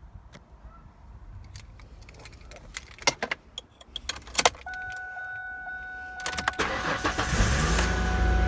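Keys jangling and clicking into the ignition, then a steady electronic chime. About six seconds in, the starter cranks the 2004 Mustang's 3.9 liter V6, which catches and settles into a steady idle.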